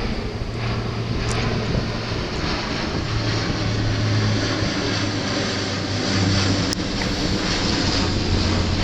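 Airbus A400M's four turboprop engines running, a steady low propeller hum over a broad rush of engine noise.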